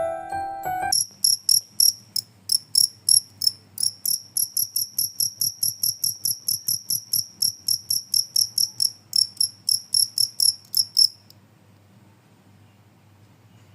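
A short chiming jingle ends about a second in. Then a field cricket (jangkrik kalung) chirps in an even, high-pitched train of several chirps a second, stopping abruptly about eleven seconds in.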